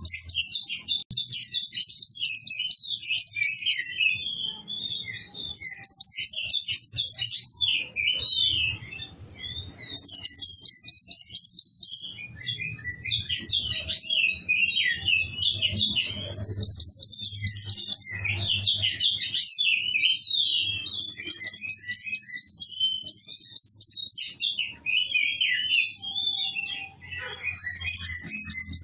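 A kowul songbird singing continuously in full voice: fast, high buzzy trills of a second or two, repeated several times, alternating with jumbled twittering chirps. A faint steady low hum runs underneath.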